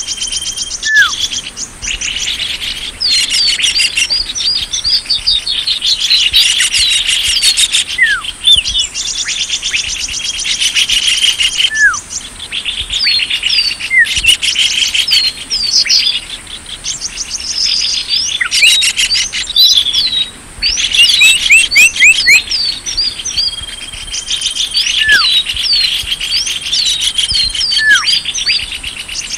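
Small birds chirping and twittering in a busy chorus: rapid trills and repeated short downward whistles overlapping without pause, as used in a bird-lure (pikat) call recording. A steady high hiss runs underneath.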